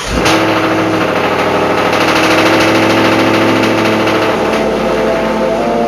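Car engine running steadily, its tone changing about four seconds in.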